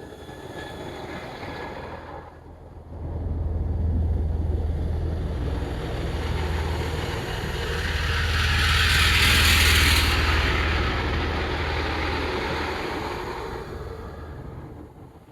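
A train going past close by, with a steady low engine hum. Its noise builds to a peak about nine seconds in and fades toward the end.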